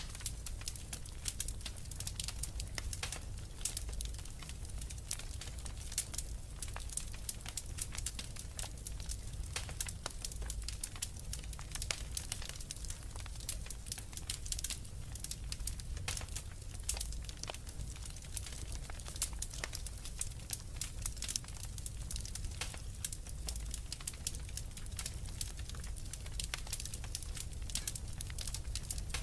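Wood fire in a fireplace crackling: many irregular sharp pops and snaps over a low, steady rumble.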